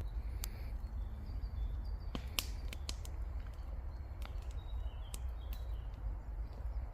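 Wood campfire crackling, with irregular sharp pops, the loudest about two and a half seconds in. Faint bird chirps sound behind it over a steady low rumble.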